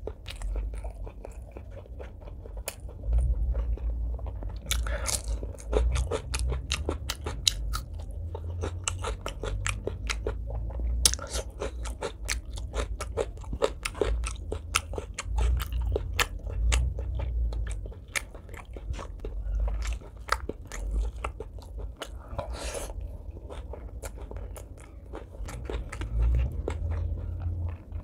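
Close-miked chewing and wet, sticky mouth sounds of someone eating braised pork leg and rice, with many quick smacks and clicks over dull chewing thumps.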